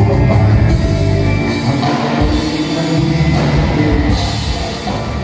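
Rock band music with drums and sung vocals, played loud.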